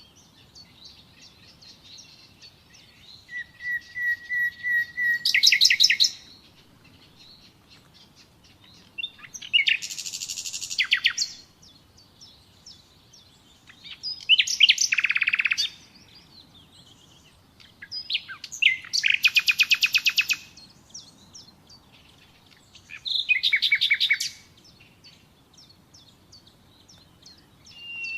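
Common nightingale singing: five separate phrases of rapid repeated notes and trills, with pauses of a few seconds between them. The first phrase opens with a run of notes on one pitch that grows louder before breaking into a fast trill.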